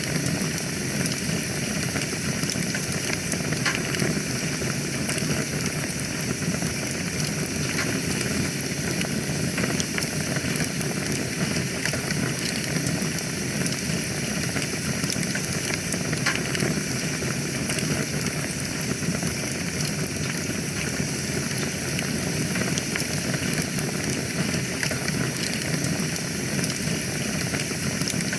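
Wood fire burning in a fireplace: a steady hiss with many small crackles and an occasional sharper pop.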